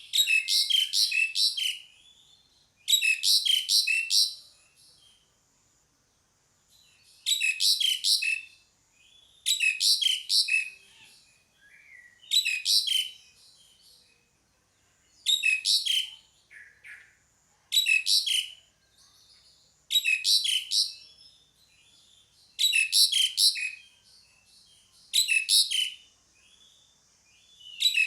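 Asian pied starling (jalak suren) calling: about a dozen short, loud phrases, each a quick run of sharp, high notes, repeated every two to three seconds.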